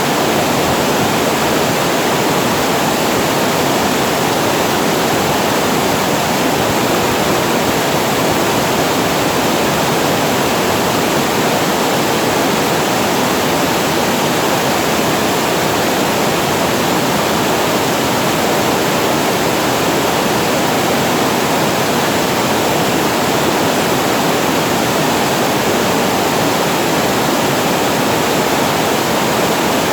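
Water pouring over a reservoir weir and crashing below it: a loud, steady rush that never lets up.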